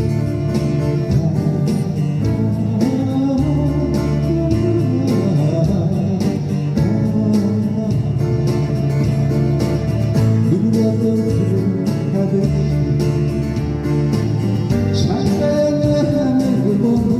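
Live band playing an instrumental passage between verses of a Korean pop ballad: guitar strumming over a steady bass, with a wavering melody line on top.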